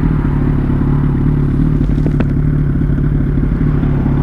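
Yamaha R1's inline-four engine running steadily at an even pitch, with a brief click about two seconds in.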